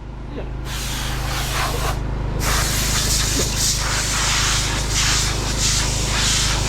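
Compressed air blowing in long hissing bursts, with short pauses near the start and about two seconds in, over the steady hum of an engine running.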